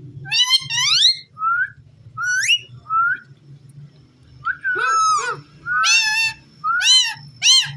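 Indian ringneck parakeet giving a run of short rising whistles and chirps, then a few quick arched calls near the end.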